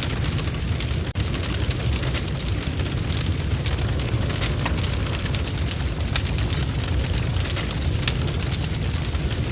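Bonfire burning with dense, irregular crackling and popping over a steady low roar of the flames, with a momentary dropout about a second in.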